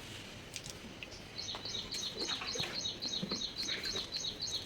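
A bird calling in a fast, even series of high chirps, about four a second, pausing briefly and starting again about a second and a half in.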